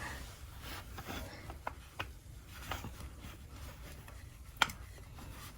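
Stovetop espresso maker being unscrewed, its top twisted against the bottom chamber: faint rubbing with a few scattered sharp clicks, the sharpest about four and a half seconds in.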